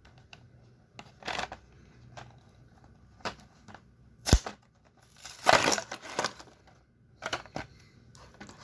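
Toy packaging being opened by hand: cardboard and plastic crackling and tearing in short irregular bursts, with a sharp snap about four seconds in and a longer rustle just after.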